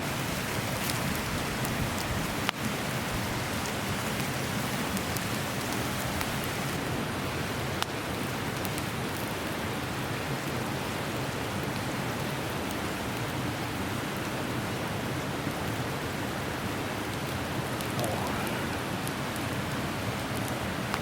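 Beef marrow bones grilling over a wood campfire: a steady sizzling hiss with scattered sharp crackles.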